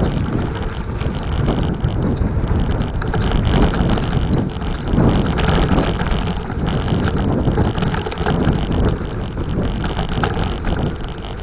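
Wind buffeting the microphone of a camera on a moving bicycle, a steady low rumble with the hiss of the tyres on the road.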